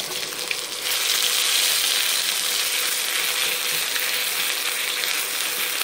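Ginger-garlic-onion paste sizzling in hot oil in a kadhai while it is stirred with a spatula. The sizzle gets louder about a second in.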